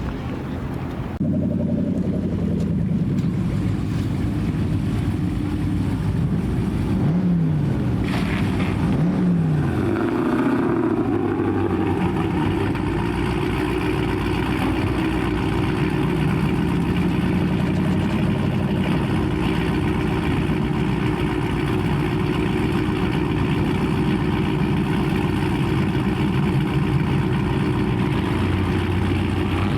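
Car engine running loud, with two quick revs that fall away in pitch about seven and nine seconds in, then running steadily.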